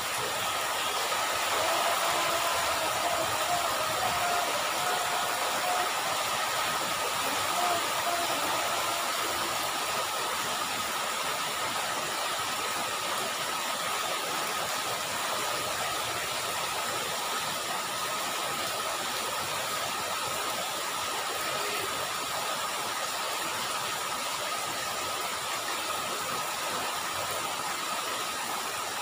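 Heavy rain falling steadily on a flooded paved road and its puddles, an even hiss.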